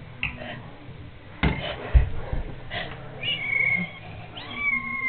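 Young tortoiseshell kitten meowing twice in high, drawn-out cries, hungry and calling for food. A few short knocks and a low thump come just before the meows.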